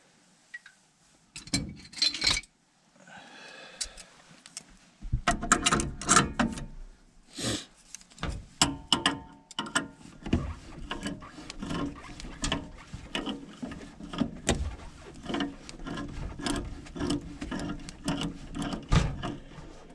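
Hand tools working threaded gas-pipe fittings on a furnace gas valve: a few metal knocks, then from about five seconds in a dense, irregular run of clicks, knocks and scrapes as the fittings are turned and tightened.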